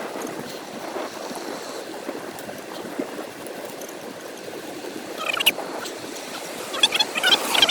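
Wind rushing over the microphone while riding a bicycle into a headwind. From about five seconds in, bursts of short, high calls cut in, coming thick near the end.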